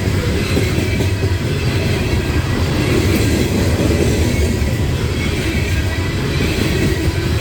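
Loaded coal hopper cars of a freight train rolling past: a steady, loud rumble of steel wheels on the rails.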